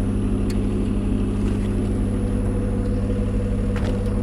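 Jeep's engine running at a steady raised idle, set up to power the winch for a recovery pull.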